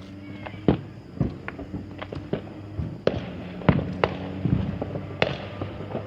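Fireworks going off in the distance: about a dozen sharp bangs and pops at irregular intervals, the loudest coming about a second in and just past the middle, over a steady low hum.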